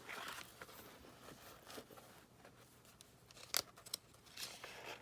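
Faint scraping and rustling of paper and thread as a needle is worked through the holes in a journal's spine to sew in a signature, with a sharp click about three and a half seconds in.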